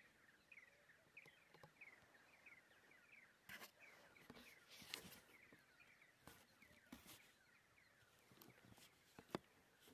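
Near silence, with a bird's faint short chirps repeating two or three times a second, fading after the first half, and a few sharp clicks, the loudest near the end.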